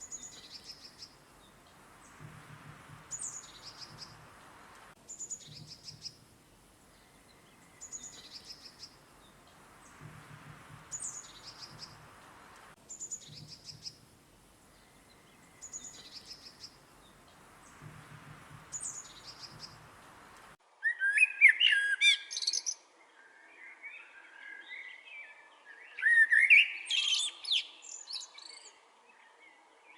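Wild songbirds: a short, high chirping call repeated about every two and a half seconds, then, about two-thirds of the way in, an abrupt switch to louder, fuller and more varied birdsong.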